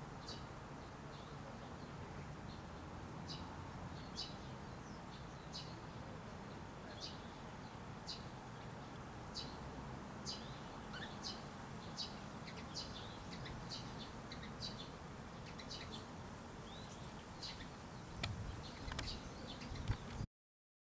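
Small birds chirping in short, scattered high calls over a steady low background hum. A few louder low rumbles come near the end before the sound cuts off suddenly.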